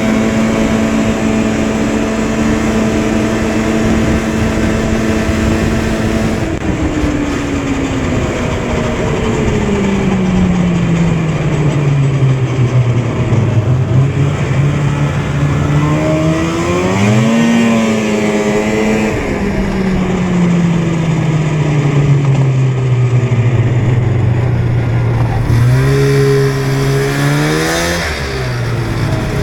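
Snowmobile engine running under way. It holds a steady pitch for several seconds, then drops slowly as it eases off, with a quick rev up and down in the middle and another short rev near the end.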